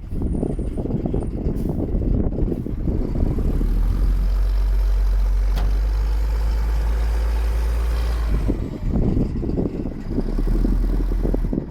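BMY M931A2 5-ton military truck's 8.3-litre Cummins turbo diesel running, with uneven low rumbling at first and a steady low drone through the middle few seconds. A single sharp click comes about five and a half seconds in.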